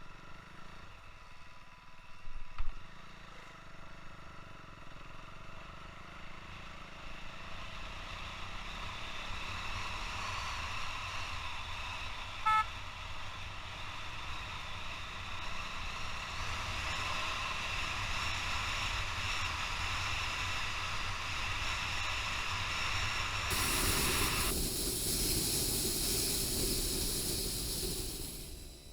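Motorcycle engine running steadily under way, with wind hissing on a helmet-mounted camera. The noise grows louder through the middle, then changes abruptly near the end.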